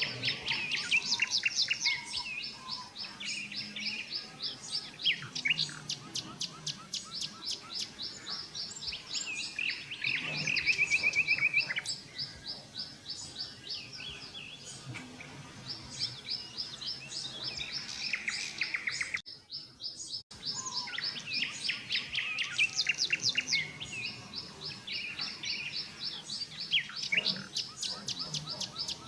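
Several songbirds chirping and singing at once, with rapid runs of high notes and fast trills overlapping. The sound drops out briefly about two-thirds of the way through, then the chorus resumes.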